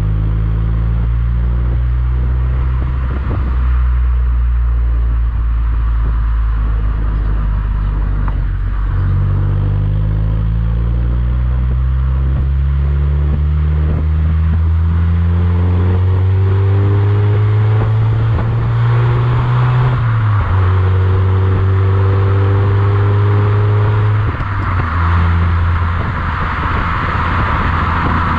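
Mazda MX-5 NC's 1.8-litre four-cylinder engine running through an IL Motorsport aftermarket exhaust while driving. The engine note climbs slowly in pitch, with gear changes about nine and twenty seconds in, and road noise grows toward the end.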